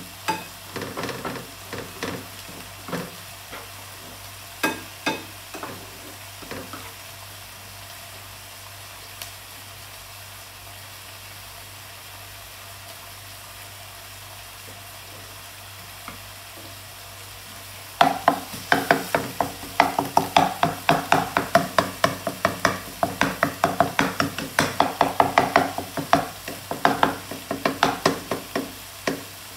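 Shredded pork ham sizzling in a skillet as a wooden spatula stirs and scrapes it. There are a few scattered strokes in the first seconds, then steady frying, then brisk, rapid stirring from about two-thirds of the way through.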